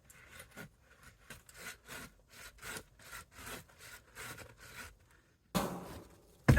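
Handsaw cutting through a fallen tree log: quick back-and-forth strokes, about three a second, that stop about five seconds in. A louder thump follows near the end.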